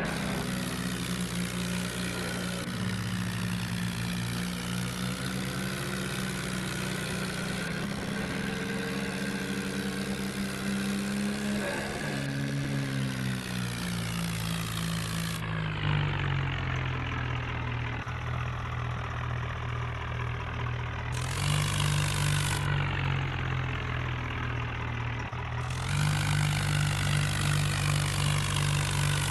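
John Deere tractor's diesel engine running steadily. Its pitch falls about halfway through, then steps back up twice near the end, a little louder the second time.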